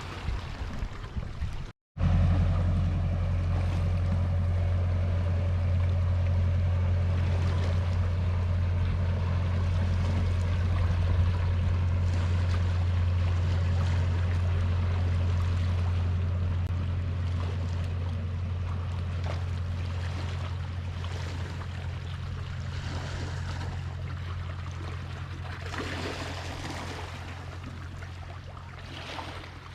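Boat engine droning steadily, slowly fading over the second half, over a wash of sea water.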